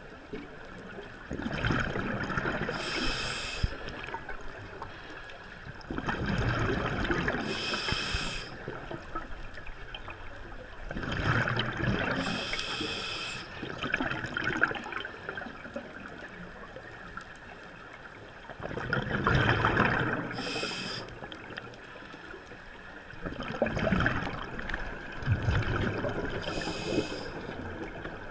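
Scuba diver breathing through a regulator underwater, about five breaths: each one a gurgling rush of exhaled bubbles followed by a short hiss from the regulator.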